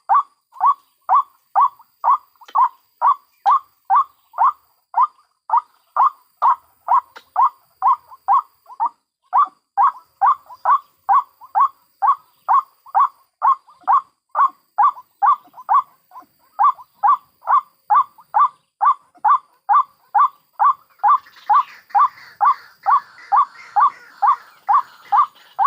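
White-breasted waterhen (ruak-ruak) calling in a long, regular series of short repeated notes, about two a second, with a couple of brief pauses. Near the end a fainter, higher chatter joins in.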